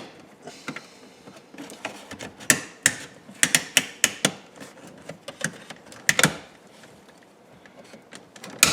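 Plastic and chrome interior trim being pried off a 2010 Mustang's centre console: scattered sharp clicks and snaps of the trim clips, in a few quick clusters.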